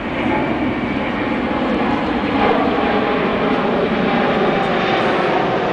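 Airbus A380 airliner's four jet engines running in flight, a loud steady rushing noise with faint humming tones in it, growing a little louder about two seconds in.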